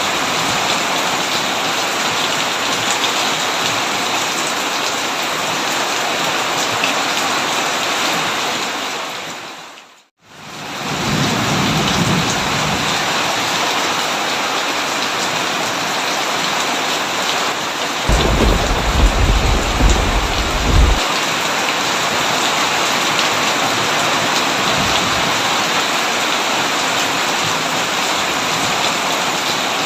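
Heavy rain on a tin roof, a steady even hiss. About a third of the way in it fades out to a moment of silence and straight back in. Thunder follows: a low rumble just after the fade, then a stronger one lasting about three seconds a little past the middle.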